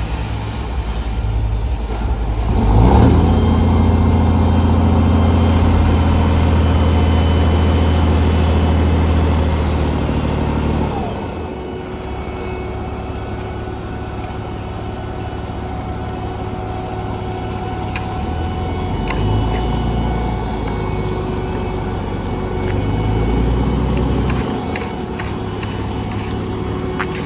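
Heavy diesel engines of road-paving equipment running. One revs up about three seconds in and runs loud until about eleven seconds, then the engine sound settles lower, swelling again briefly a couple of times.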